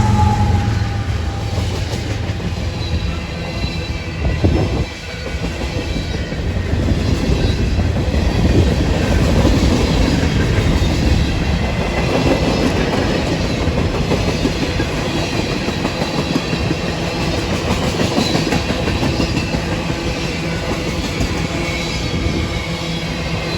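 Freight train rolling past with a steady clatter of railcar wheels clicking over the rail joints.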